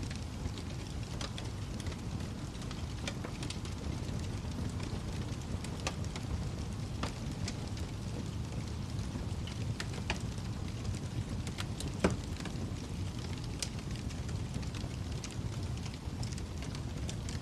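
Wood fire crackling in a fireplace: a steady low rumble of flames with scattered sharp pops and snaps, the loudest one about twelve seconds in.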